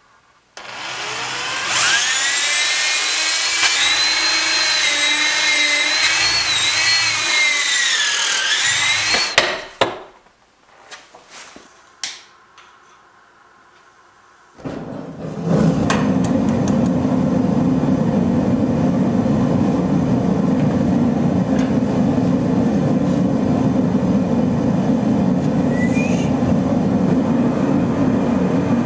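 A power tool runs with a whine whose pitch wanders up and down under load, then stops about nine seconds in. A few sharp knocks follow in a quieter stretch. From about fifteen seconds a steadier, lower rumbling machine noise starts and keeps going.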